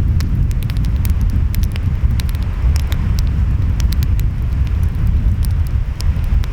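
Wood fire crackling with sharp, irregular pops over a loud, steady low rumble of ocean waves and wind.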